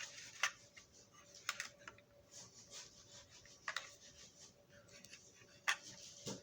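Side cutters working at a small part of a toy locomotive to pop it out: about five sharp little clicks spread out over faint scraping.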